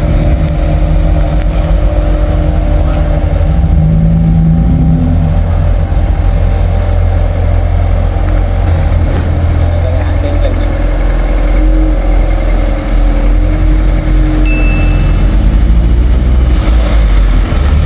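Car engine running with a loud, steady low rumble, its pitch shifting up and down a few times as it revs.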